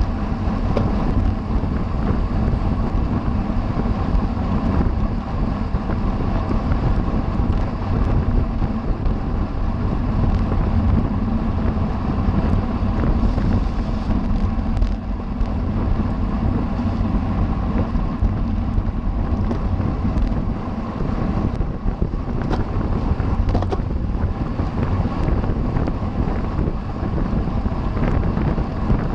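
Wind rushing steadily over the microphone of a camera riding on a racing bicycle at speed.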